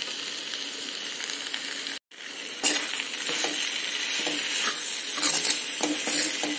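Sprouted pulses and chopped tomato sizzling as they fry in a hammered metal kadhai, stirred with a steel spoon that scrapes against the pan. The sound cuts out for a moment about two seconds in, then comes back a little louder.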